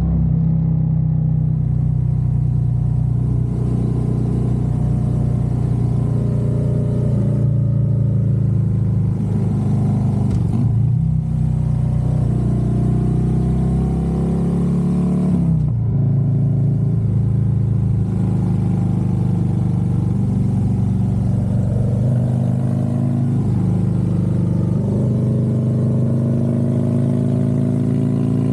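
Harley-Davidson Road Glide's V-twin engine running under way. The revs dip and recover about ten seconds in, fall sharply just past halfway, then climb steadily.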